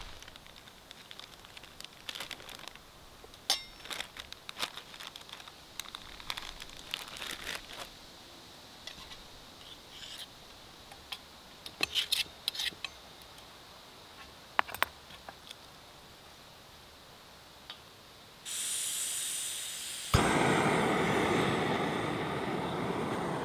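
Metal fork and spoon clicking and scraping in a small frying pan. Near the end, a gas canister stove's valve opens with a high hiss, then with a sharp click the burner lights and runs with a steady rushing sound.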